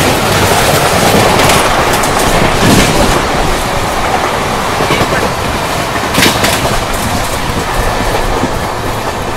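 Passenger train running at speed, heard from an open coach doorway: a steady rush of wind and running noise, with the wheels clacking over rail joints a few times.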